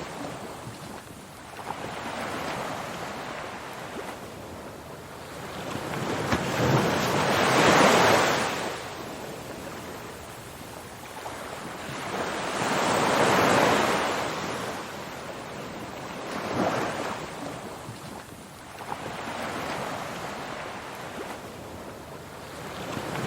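Ocean surf: waves wash in and draw back in slow surges every few seconds, the biggest about a third and halfway through.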